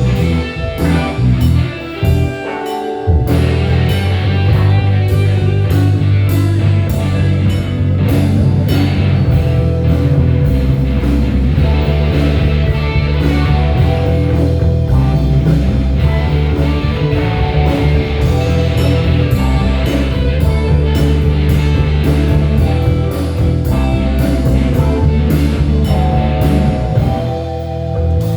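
Live band playing an instrumental stretch: electric bass, drum kit and keys, with guitar on top. The bass and low end drop out briefly about two seconds in, then the groove carries on steadily.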